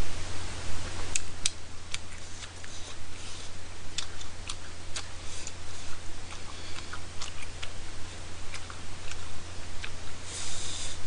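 A person chewing spicy tteokbokki rice cakes, with scattered, irregular small mouth clicks over a steady low hum, and a short breathy hiss near the end.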